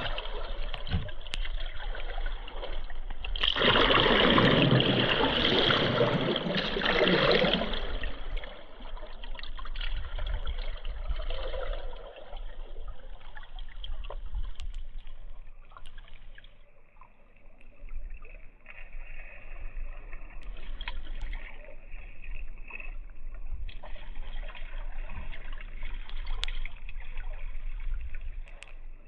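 Flowing river water trickling and lapping, with a louder rush of splashing water starting about three and a half seconds in and lasting some four seconds.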